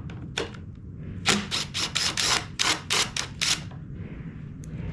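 A quick, uneven run of about nine sharp clicks over two seconds, over a steady low hum.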